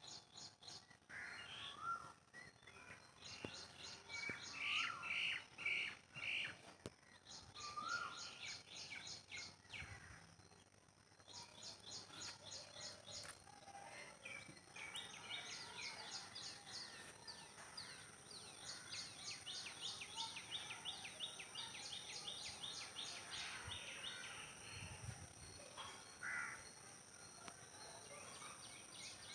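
Several wild birds singing and calling, in bouts of rapid, high repeated chirps mixed with lower whistled notes. A faint steady high-pitched tone sounds underneath throughout.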